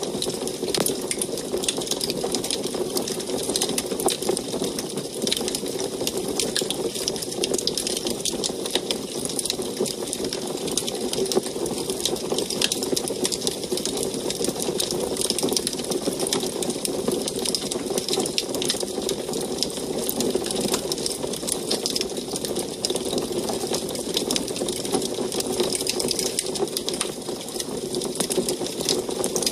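Wood fire burning in an antique wood stove, crackling steadily with many small, quick pops over a continuous hiss.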